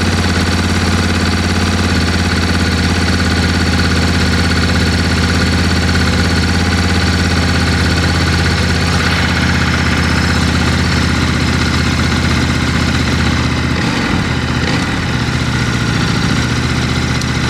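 Ducati Desert X's 937 cc V-twin running through an SC Project slip-on silencer, idling steadily, with its note shifting a little about fourteen seconds in. The engine is not yet at full operating temperature, and the note is a bit gruffer than stock but still restrained.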